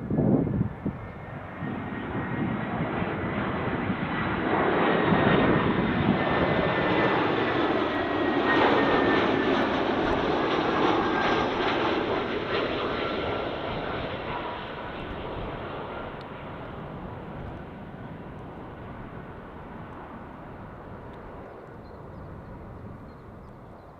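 Jet airliner on short final approach passing low overhead: its engine noise builds to a peak about five to ten seconds in, with whining engine tones that drop in pitch as it goes by, then fades slowly. A brief low thump comes right at the start.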